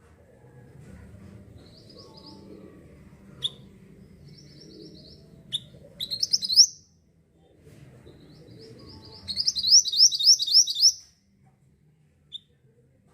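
Mantenan bird singing in short, high, rapid trilled phrases. The loudest phrase comes about six seconds in, and a longer run of about eight fast notes follows near the ten-second mark, over a low background rumble.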